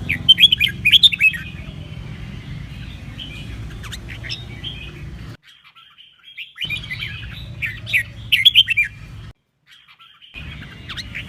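Red-whiskered bulbul singing: bursts of quick, high warbled chirps, the loudest near the start and again about seven to nine seconds in, over a steady low hum. The sound cuts off abruptly twice between phrases.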